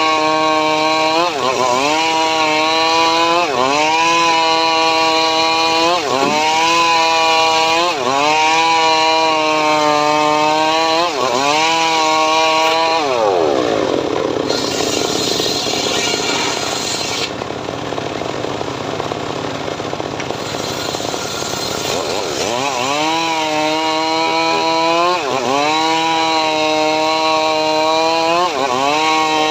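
Chainsaw engine driving a homemade sawmill rig while cutting sengon wood, running at high revs with its pitch sagging briefly about every two seconds as it takes load. About halfway through the pitch falls to a low idle for some eight seconds, then it revs back up and resumes cutting with the same sags.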